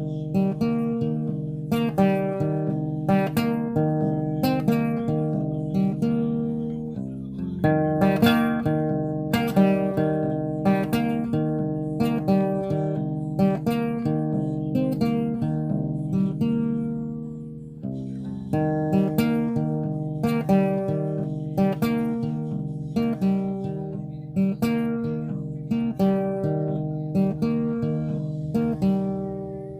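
Acoustic guitar playing an instrumental piece, with plucked and strummed chords in a steady rhythm. The chords let one chord ring out and fade about two-thirds of the way through, then start again.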